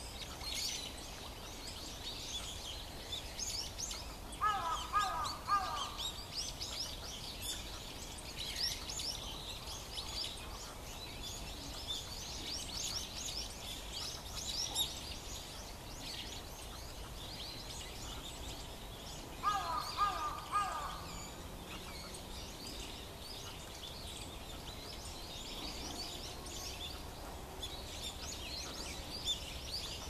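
Small wild birds chirping and twittering continuously with short, high calls. Twice, once about four and a half seconds in and again near twenty seconds, a lower bird call of three or four falling notes stands out.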